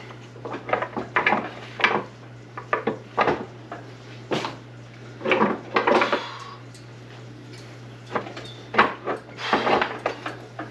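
Heavy steel gears and shaft of an SM465 transmission clanking, knocking and scraping against the cast-iron case as they are worked out by hand, in irregular bursts with a few longer rattles. A steady low hum runs underneath.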